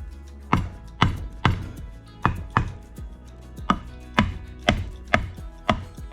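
About ten sharp taps at uneven intervals, typical of parts of a motorcycle engine's top end being knocked into place during assembly, over steady background music.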